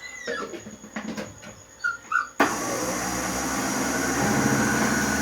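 A dog whimpering with a few short high yips, then about halfway through a kitchen blender switches on and runs steadily, mixing pizza batter, growing slowly louder.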